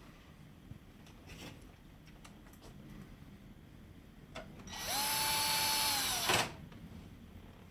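Cordless power screwdriver running once for about a second and a half, its motor whine spinning up, holding steady and winding down, with light clicks of handling around it.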